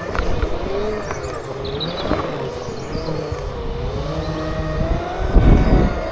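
Segway's electric motors whining, the pitch wavering up and down as it speeds up and slows, with a few knocks in the first couple of seconds and a gust of wind on the microphone about five and a half seconds in.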